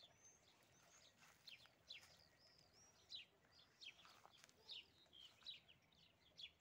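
Faint chirping of small birds: a steady run of short, high chirps, with a couple of longer arched whistles early on.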